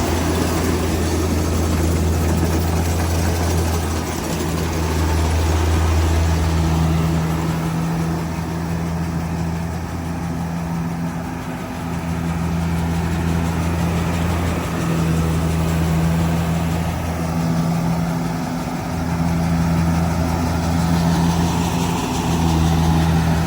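Large diesel engine running steadily: a low hum whose level swells and dips every few seconds.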